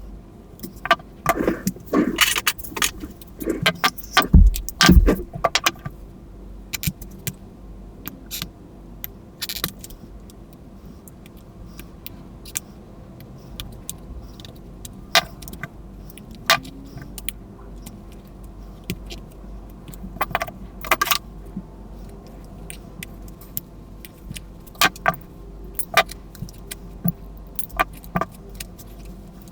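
Sharp clicks, taps and small rattles of a battery-powered plush toy being handled and taken apart, a dense run of knocks in the first few seconds, then scattered clicks.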